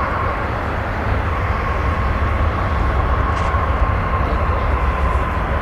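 Jet airliner engines running: a steady rumble and rush with a thin high whine that drifts slowly lower in pitch.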